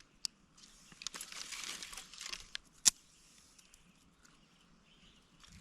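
Dry fire-starting material and kindling being handled for a campfire. It rustles and crinkles for about a second and a half, with a few light clicks, and there is one sharp snap about three seconds in.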